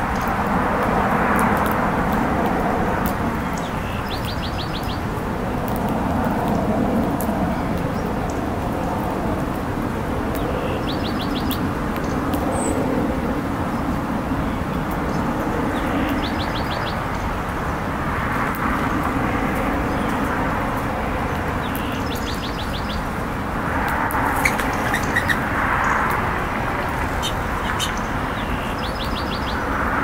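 Small songbirds giving short, rapid trilled chip calls, repeated every few seconds at irregular gaps, over a steady background rumble.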